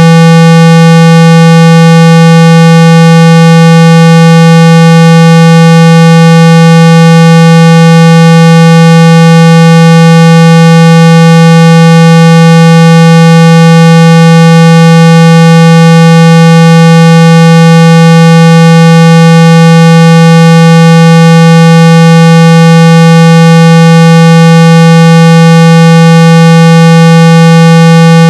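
A steady, very loud electronic buzzing tone at 165 Hz, rich in overtones and unchanging. It is a speaker-cleaning tone, played to shake water and dust out of an iPhone's speaker.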